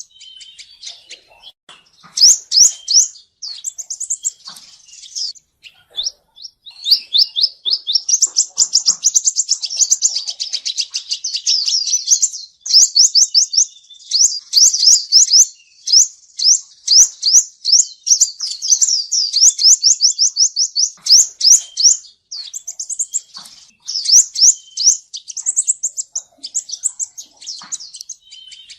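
Male sunbird singing: high, thin, rapidly repeated notes in short phrases, with a long fast trill running through the middle.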